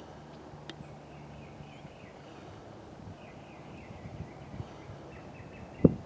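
Outdoor ambience with a bird chirping in short repeated notes over a faint low hum, and one sharp knock just before the end.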